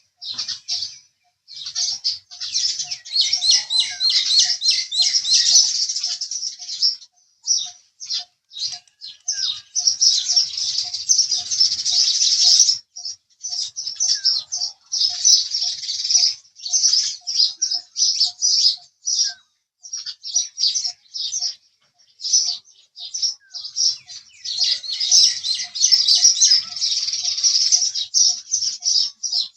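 House sparrows chirping, several at once: runs of short, sharp chirps that swell three times into dense overlapping chatter, with brief gaps between.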